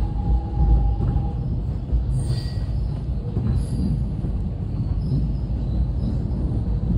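Suburban electric train running, heard from inside the carriage: a steady low rumble of wheels on the track. There is a faint, brief high squeal from the wheels about two seconds in.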